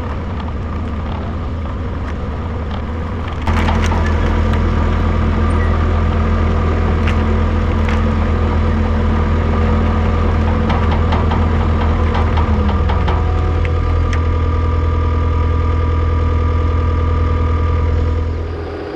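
Diesel engine of the heavy machine pulling a water line plow, running steadily under load, with scattered clicks and clanks. It gets louder suddenly about three and a half seconds in and fades near the end.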